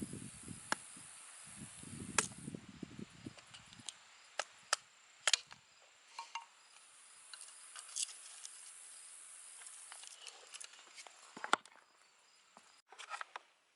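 Scattered sharp clicks and taps over a faint steady high hiss, with low rumbling through the first few seconds.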